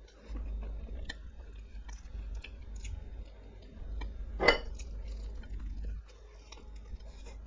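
Close-miked eating sounds: chewing and small scattered clicks of food and dishes, with one sharp, louder click about halfway through.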